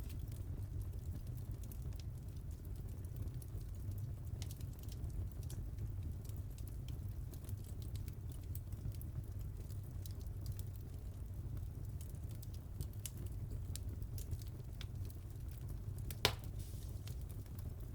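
Wood fire crackling in a fireplace: a steady low rumble of burning with scattered small snaps and pops, and one louder pop near the end.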